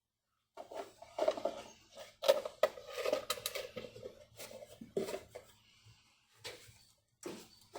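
Handling clatter: a quick run of metallic clinks and knocks with a short ring, busiest for the first few seconds and then thinning to a few scattered knocks.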